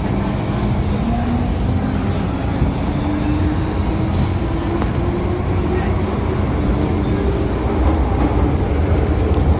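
First-generation MTR M-Train (CM Stock) running on the line: a steady rumble with a motor whine that rises slowly in pitch as the train gathers speed.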